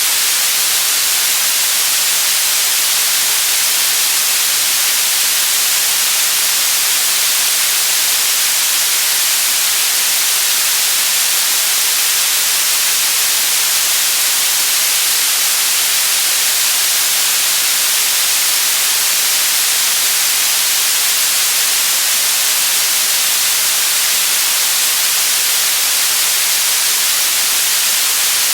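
Steady white noise: an even, unbroken hiss, loud and bright, with most of its energy in the upper range.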